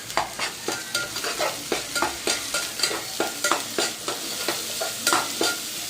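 Ginger-garlic paste frying in hot oil with a steady sizzle, while a metal spoon stirs it and clinks and scrapes against the pan about two to three times a second.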